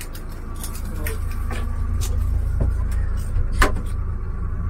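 Low rumble of a Hino RN285 bus heard from inside its cabin, growing louder, with scattered rattles and clicks and one sharp click about three and a half seconds in.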